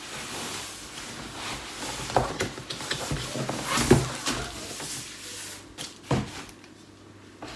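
Rustling and handling of packaging as baby-bottle parts are lifted out of a cardboard box, with a few light knocks of items against the box about two, four and six seconds in.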